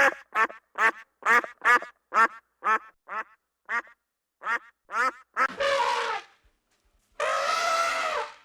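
Flamingos honking: a run of short, goose-like calls, about two or three a second, then two longer, drawn-out calls near the end.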